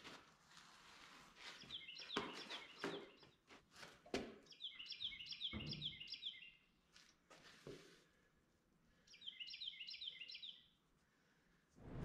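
A songbird singing faintly in three spells of quick repeated chirping notes, over a few faint knocks and scuffs from a heavy tractor tire being handled onto its hub.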